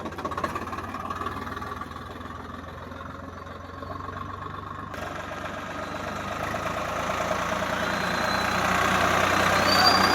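Tractor diesel engine running steadily, growing louder over the second half.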